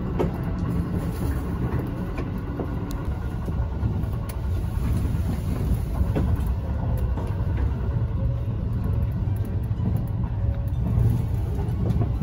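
Cabin noise of a JR 651 series electric train under way: a steady low rumble of wheels and running gear, with a few faint clicks.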